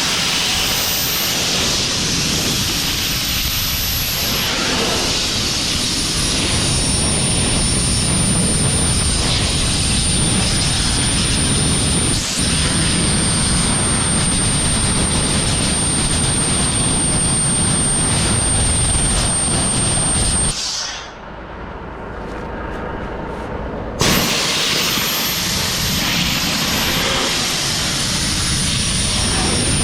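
Powerful air-blowing machine for drying and cleaning a truck, blasting a steady loud rush of air with a thin high whine. About 20 s in it winds down for a few seconds, then starts blasting again abruptly.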